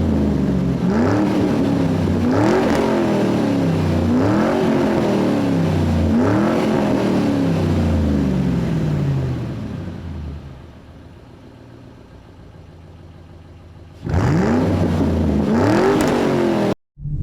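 Car engine revved over and over, about once every two seconds, each rev rising and falling in pitch. The sound drops away to a low level for a few seconds, then the revving returns loud and cuts off suddenly near the end.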